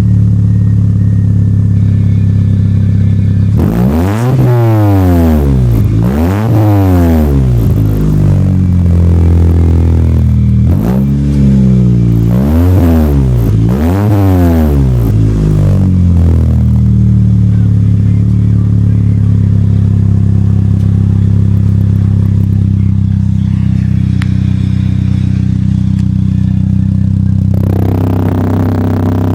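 Mitsubishi Eclipse exhaust through a new aftermarket Apexi-type muffler: the engine idles, then is blipped up and back down in two clusters of quick revs before settling back to idle. A fuller sound comes in near the end.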